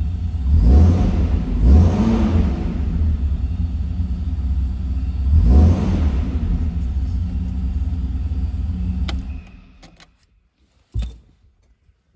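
1962 Alfa Romeo 2600 Spider's twin-cam straight-six idling and blipped three times, then switched off, dying away about nine and a half seconds in. A click comes just before it stops, and a short low thump comes near the end.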